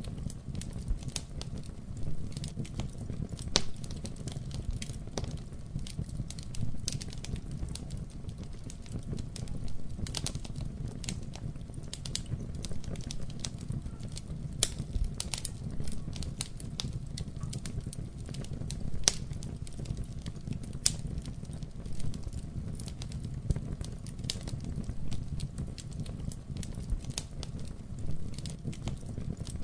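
Wood fire burning in a fireplace: a steady low rumble of flame with irregular crackles and occasional louder pops.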